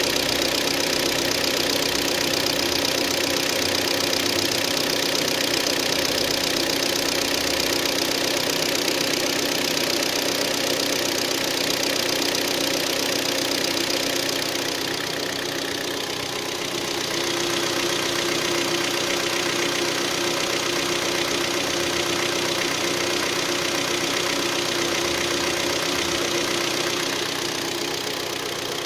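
Hyundai G4KD 2.0-litre four-cylinder petrol engine idling with a knock, the sign of scored cylinder walls in cylinders 2, 3 and 4. The engine is warming up after standing 12 hours, and its note changes slightly about halfway through, settling into a steadier hum.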